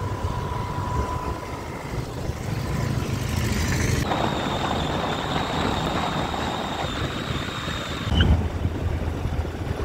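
Road vehicle travelling along, with wind rushing over the microphone. A thin, steady high whine comes in about four seconds in and stops about four seconds later.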